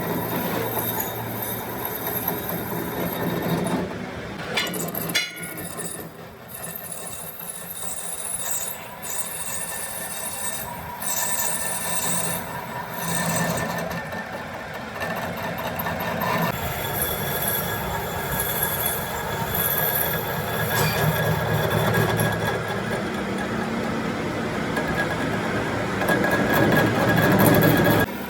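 Metal being worked in a workshop: a steady screeching of tool against metal with high ringing tones, louder near the end.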